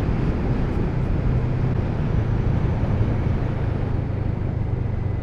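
Kawasaki Z650RS parallel-twin engine running at a steady road speed, with wind rush on the microphone; it gets slightly quieter near the end.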